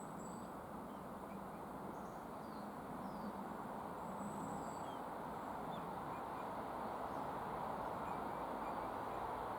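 Faint, scattered short chirps of small woodland birds over a steady low outdoor rush.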